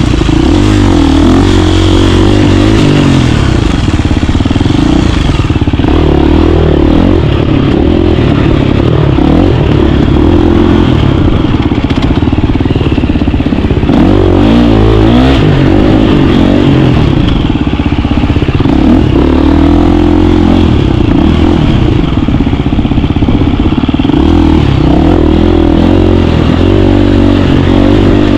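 KTM 350 dirt bike's single-cylinder four-stroke engine running continuously, its pitch rising and falling again and again with the throttle.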